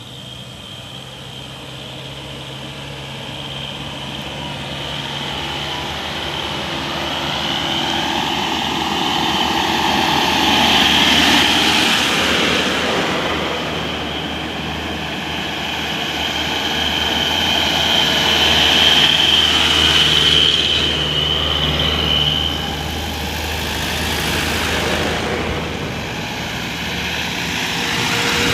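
Cargo truck engines running as the trucks drive past, over a steady high whine. The sound builds up, swells twice and eases off between.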